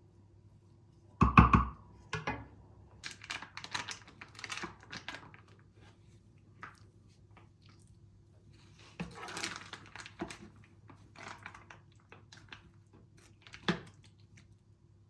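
A heavy thump a little over a second in, followed by scattered clicks and rustles of objects being handled, with a sharper click near the end, over a faint steady hum.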